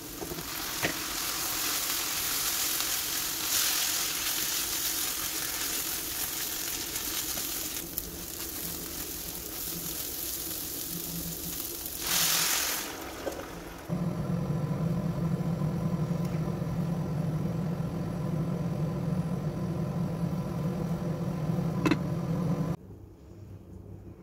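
Rice, vegetables and bulgur sizzling in a hot pan as they are stirred; about twelve seconds in, a short loud hiss as hot water is poured over them. After that, a steady low hum until it drops away suddenly near the end.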